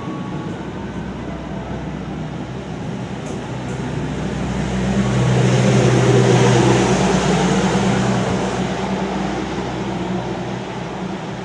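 Passenger train coaches running through the station without stopping: a steady rumble with a low hum that swells to its loudest about halfway through, then fades as the last coach passes.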